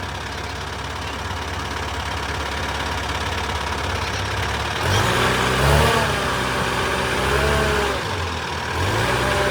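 An engine idling with a steady low hum. About halfway through, voices come in over it.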